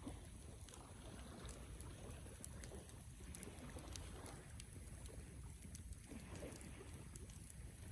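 Wood fire burning, a low steady rumble of flame with scattered small crackles and pops of burning wood.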